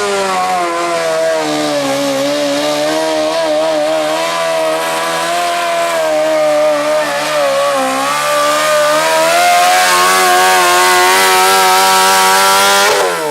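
Modified lawn tractor's engine running hard under load while it pulls the sled. Its pitch sags and recovers a few times, climbs over the later seconds, then drops sharply at the very end as the throttle comes off.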